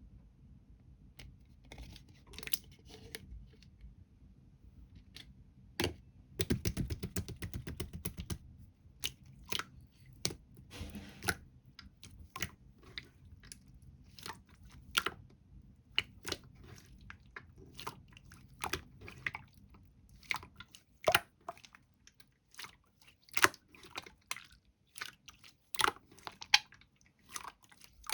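Close-miked irregular crunching, crackling and clicking, with a dense crackling stretch about six to eight seconds in.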